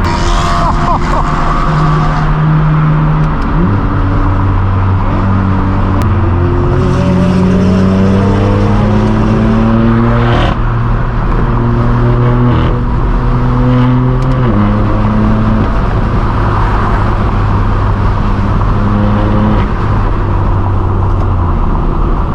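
BMW M4 F82's twin-turbo inline-six running through a straight-piped AWE Track exhaust under way. The revs rise and fall with gear changes, and a long climb about ten seconds in ends in a quick upshift with a sharp crack.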